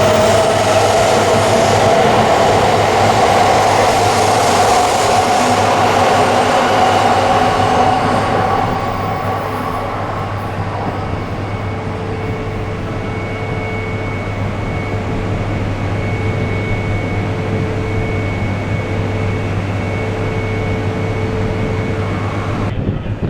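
Shinkansen train moving along the platform at Omiya Station, its loud running noise carrying a steady whine that eases off about eight seconds in. Wind rumbles on the microphone throughout, and from about halfway a steady tone sounds in repeated stretches of about two seconds.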